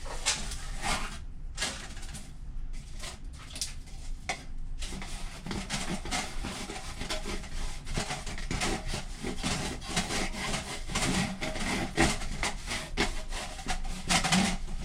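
Scraping and rubbing inside an aluminum dryer vent duct as lint is worked out of it by hand: quick, irregular strokes, with a few short pauses in the first seconds.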